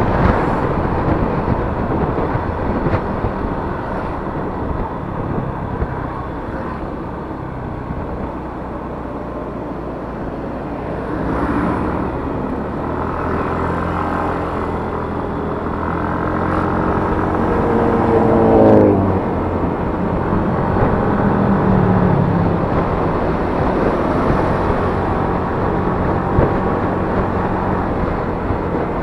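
Yamaha Mio S automatic scooter's single-cylinder engine running under way, mixed with steady wind and road noise. About halfway through, an engine note climbs steadily as it speeds up, then drops away sharply about two-thirds of the way in.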